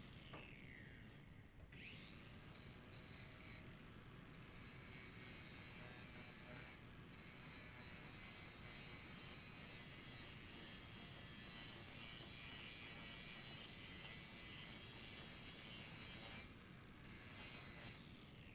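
Electric grinder sharpening a steel lawnmower blade: a steady high grinding hiss in long passes with a few short breaks. Near the start the motor's pitch drops and then climbs back up.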